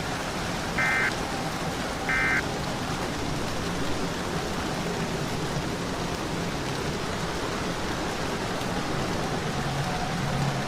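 Two short Emergency Alert System end-of-message data bursts, about a second apart, the last of a set of three that closes the alert. Under them and after them runs a steady rain-like hiss.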